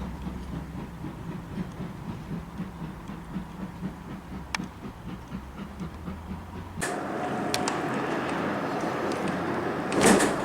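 Train sounds: a low steady rumble with faint rhythmic pulsing. About seven seconds in, it gives way abruptly to a steady hiss, which swells briefly and loudly near the end.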